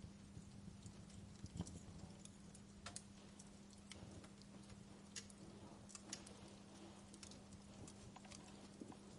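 Wood fire crackling softly, with irregular small pops and snaps over a faint steady low hum.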